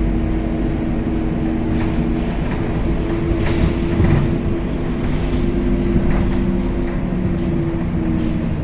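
Scania K270UB city bus under way, heard from inside the passenger cabin: a steady droning hum from the engine and drivetrain over low road rumble, with a few short rattles and knocks.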